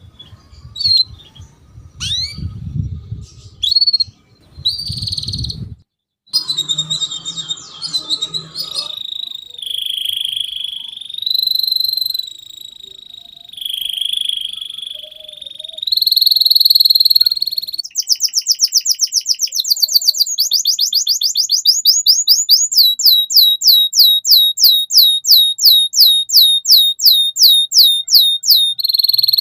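Domestic canary singing. It begins with short chirps, then holds long whistled trills, then sings a fast series of repeated down-sweeping notes at about three to four a second that grows louder near the end.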